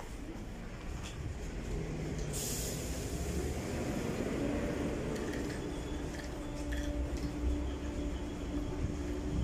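Class 313 electric multiple unit running slowly toward the platform, its wheels and running gear giving a low rumble. A brief hiss comes about two and a half seconds in, and a steady low hum sets in from about halfway.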